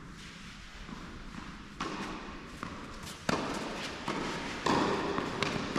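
Tennis ball struck and bouncing during a rally on an indoor court: three sharp hits about a second and a half apart, each ringing on in the hall.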